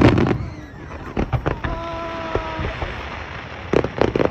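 Fireworks shells bursting, loudest at the start and again near the end, with crackling between the bursts. In the middle a steady pitched tone is held for about a second.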